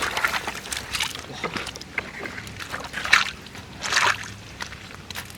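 Water splashing and sloshing in several bursts, the loudest about three and four seconds in.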